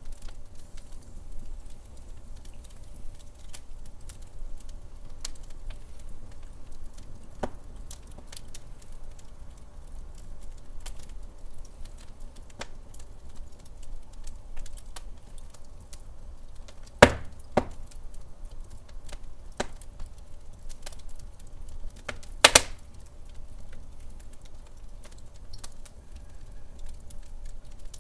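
Wood fire in a fireplace crackling, with scattered small snaps over a low steady rumble and a few louder pops, the loudest a little past halfway and another about three quarters of the way through.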